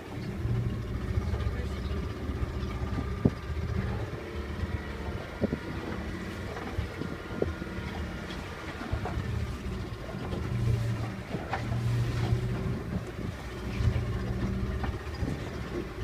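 Glass-bottom boat running, a steady low rumble with scattered knocks and faint voices in the background.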